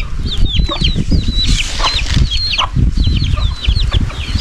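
Chicken giving a rapid string of short, high-pitched squawks while it is being chased to be caught, several calls a second, with low thudding and scuffling underneath.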